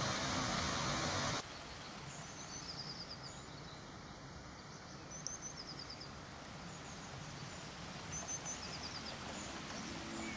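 Outdoor ambience with small songbirds singing short, repeated high trills over a quiet background. Near the start, a louder steady rushing noise cuts off suddenly.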